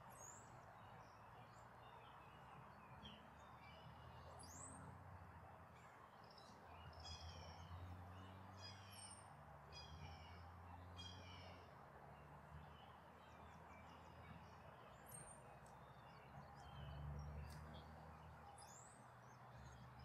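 Faint bird chirps and short runs of quick descending high calls over a quiet outdoor background with a low, wavering hum.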